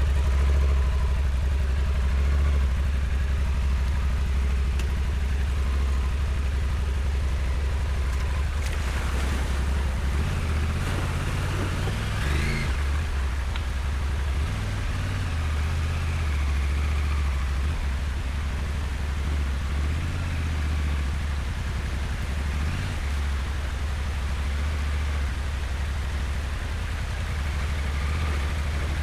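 Adventure motorcycle engine running with a deep, steady rumble, its throttle rising and falling a few times as the bike is worked up a steep, loose dirt slope.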